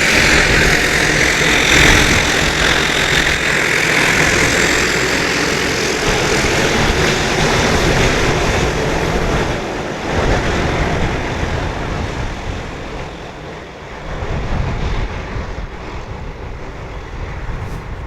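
Embraer EMB 120 Brasilia twin-turboprop aircraft passing and receding, its propeller and engine noise fading steadily and losing its high-pitched edge as it moves away. Low wind rumble on the microphone underneath.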